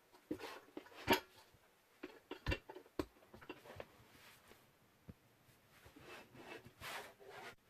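Handling noises: scattered sharp clicks and light knocks, the loudest about a second in and again near the three-second mark, with soft rustling spells later on, as of metal and plastic parts and packaging being handled.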